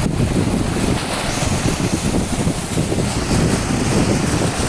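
A car driving through a flooded street: a steady low rushing and sloshing of floodwater around the tyres and underbody.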